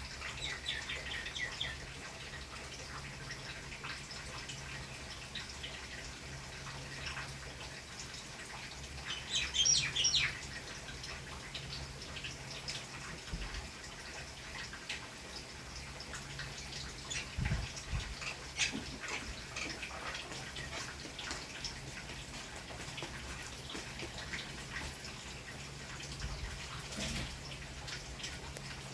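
Birds chirping now and then, with a louder flurry of calls about nine to ten seconds in, over a steady low hum and scattered light clicks.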